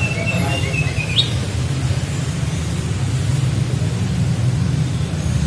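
A tledekan (flycatcher) gives a short flute-like whistled phrase in the first second, ending in a quick rising note, over a steady low hum.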